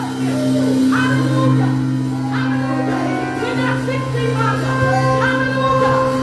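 Live church worship music: a steady held chord in the low range with voices singing over it.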